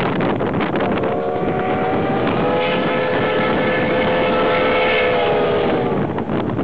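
Steam locomotive's whistle blowing one long, steady blast of about five seconds that sags slightly in pitch just before it stops, over wind buffeting the microphone.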